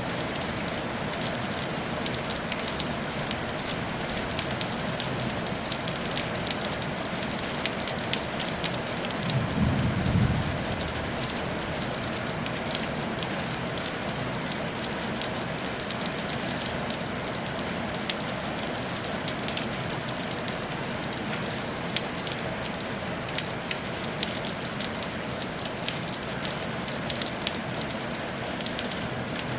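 Steady rain falling on a tile roof, a continuous hiss with many individual drops ticking. About a third of the way in, a brief low rumble swells and fades.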